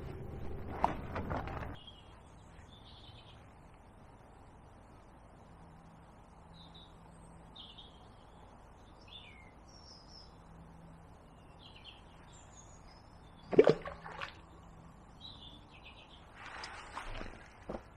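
Small birds chirping, short scattered calls over a quiet outdoor background. There is a short noisy handling sound at the start, a sharp loud knock about two-thirds of the way through, and another brief rustle near the end.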